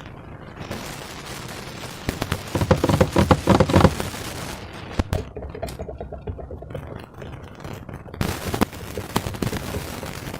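Slime being squished and stretched by hand, giving a dense run of wet crackling and popping clicks that is loudest about three seconds in.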